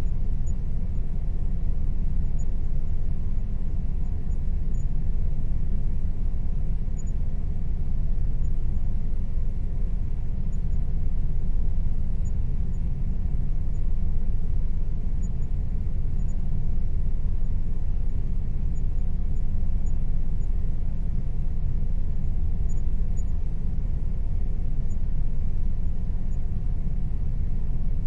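Air conditioner running steadily: a constant low rumble with a faint steady tone above it.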